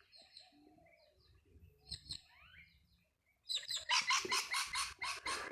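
Wild birds calling: a few faint high chirps, then a bit past halfway one bird breaks into loud, rapid repeated calls, about five notes a second.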